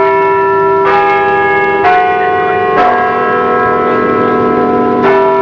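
Bells struck one at a time, about one stroke a second with a longer pause before the last. Each stroke rings on over the next at a different pitch, like a peal of church bells.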